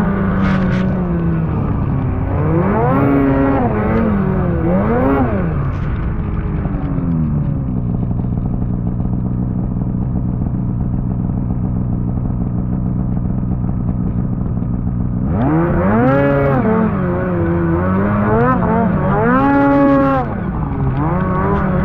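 Two-stroke snowmobile engine revving up and down, settling to a steady run for several seconds, then climbing sharply in pitch and revving hard again before backing off near the end.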